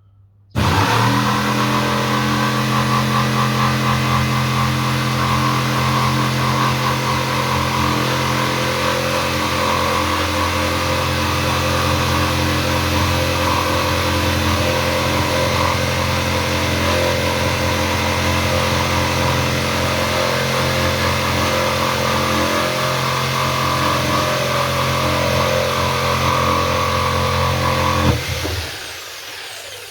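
Fieldmann FDP 200712-E 710 W corded jigsaw switched on and cutting through a thick board, its motor and blade running at a steady pitch and level. It starts abruptly about half a second in and stops near the end, the motor winding down over about a second.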